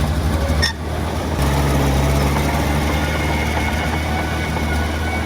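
Diesel engine of a Komatsu D20 bulldozer running steadily with a low hum, dipping briefly less than a second in.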